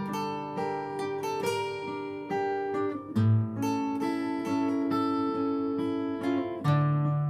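Acoustic guitar playing an instrumental break between sung verses: picked melody notes over strummed chords, with a deeper bass note about three seconds in and again near the end.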